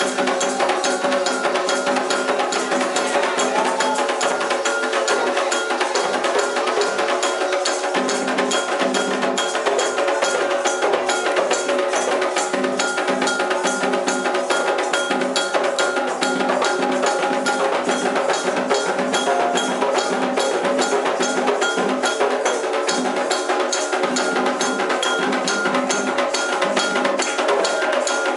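Candomblé ritual percussion: hand drums and a struck metal bell playing a fast, steady rhythm without a break.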